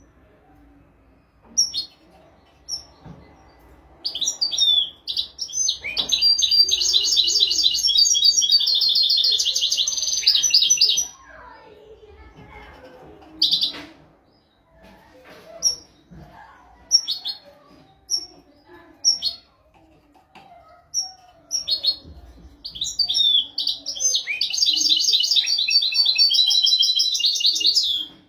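A European goldfinch singing. Scattered single chirps lead into two long, fast twittering phrases of rapidly repeated high notes, one in the first half and one near the end.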